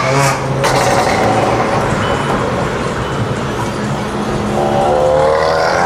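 Car on the move: steady engine and road noise, with a pitched engine note that rises and grows louder in the last second or so.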